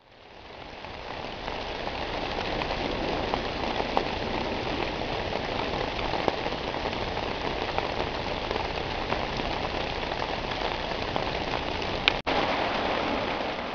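Steady rain falling on a silnylon hammock tarp, fading in at the start, with a few louder single drops standing out.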